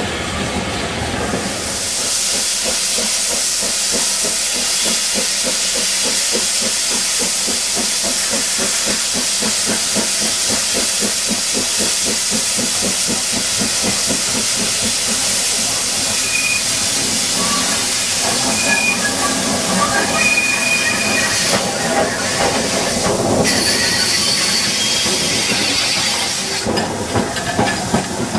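Steam locomotive letting off steam: a loud, steady hiss that starts about two seconds in and cuts off suddenly near the end.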